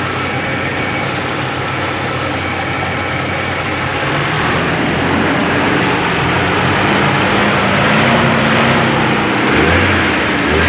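Nissan pickup's twin-cam 16-valve engine running on test after its worn drive belts were replaced with new ones, getting louder and picking up speed about four seconds in.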